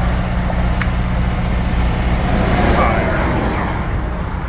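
Diesel truck engine idling steadily, with wind noise over it and a single sharp click about a second in.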